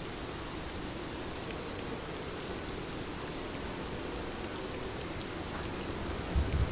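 Heavy rain falling steadily. A low rumble of thunder starts near the end.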